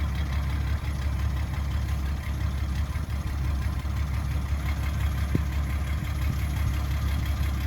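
Excavator diesel engine running steadily with a low, even drone, and a single sharp click about five seconds in.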